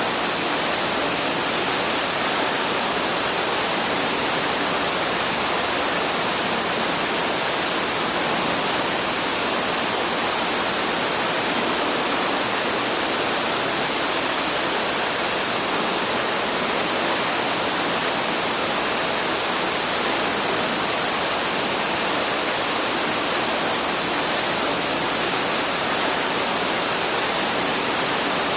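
Waterfall rushing steadily, an even hiss of falling water with no change throughout.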